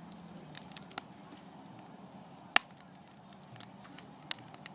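Fire crackling: scattered sharp pops over a low steady hiss, the loudest about two and a half seconds in.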